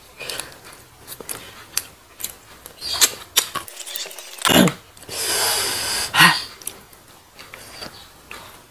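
Close-miked chewing and mouth sounds of a person eating rice and fish: many short wet clicks and smacks. About five seconds in comes a rustling hiss lasting about a second.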